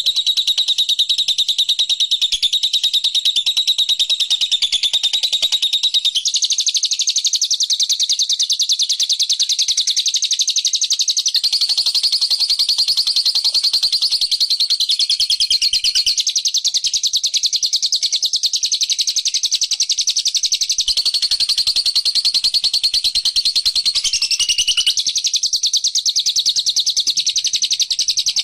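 Small songbird's rapid, unbroken high chattering trill, played as a lure song. Its pitch shifts up or down every few seconds.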